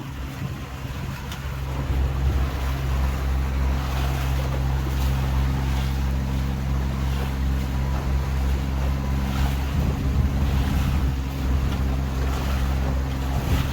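Tour boat's engine running with a steady low hum that grows louder about two seconds in, over water rushing past the hull and wind on the microphone.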